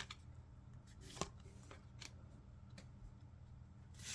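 Faint handling of trading cards: a few soft clicks and rustles, about one a second, as the cards are flipped from one to the next.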